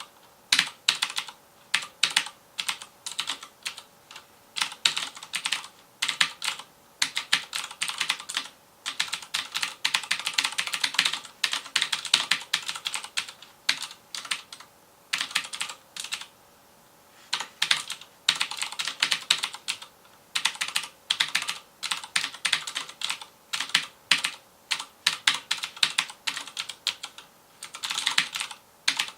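Fast typing on a FILCO Majestouch Convertible 2 mechanical keyboard with Cherry MX Blue (clicky) switches: rapid runs of sharp key clicks broken by short pauses, with a pause of about a second and a half past the middle.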